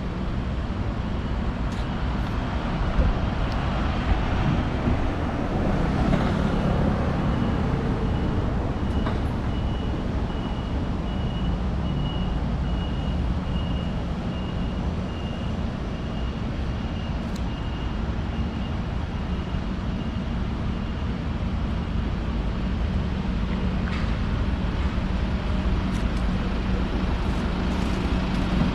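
Street traffic: vehicle engines running and tyre noise in a steady low rumble, with a faint high whine for several seconds in the middle.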